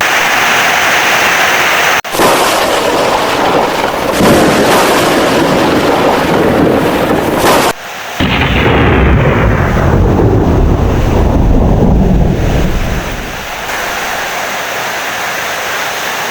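Heavy rain with thunder rumbling. The sound breaks off abruptly twice, then a deep rumble swells about halfway through and dies away a few seconds later, leaving steady rain.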